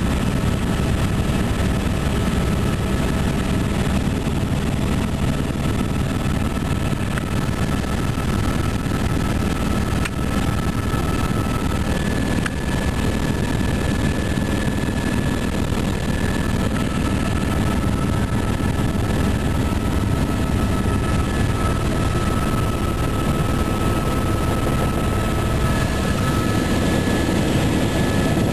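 Helicopter running steadily during a ride: a dense, even rotor and engine noise with a steady high whine over it.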